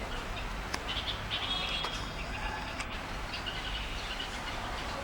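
Small birds chirping in quick high twitters, busiest about a second to three seconds in and again near the end, over a steady low background rumble.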